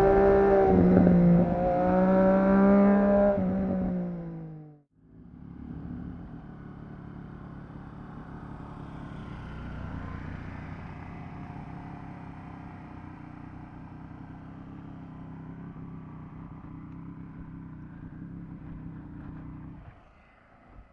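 Triumph Street Triple RS inline-three motorcycle engine through a Yoshimura exhaust, running loud under throttle with its note dropping off after about four seconds. After a sudden cut, a much quieter, steady engine note runs on and fades out near the end.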